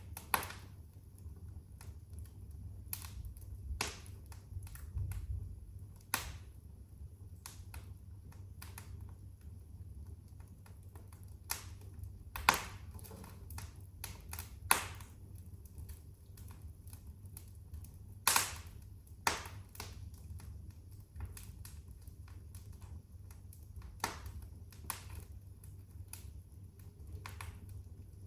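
Wood fire burning in a fireplace, crackling with irregular sharp pops and snaps, a handful of them much louder than the rest, over a steady low rumble.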